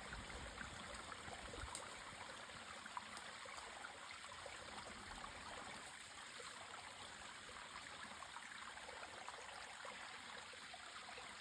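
Spring water running down a small waterfall into a stream: a steady, faint rush of flowing water.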